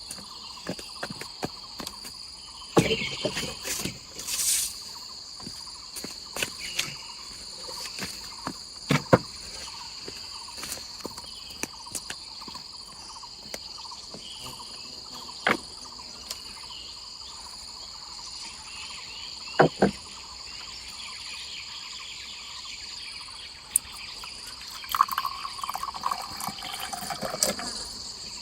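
Steady high-pitched drone of insects, with scattered sharp knocks and clicks, the loudest about a third and two thirds of the way through.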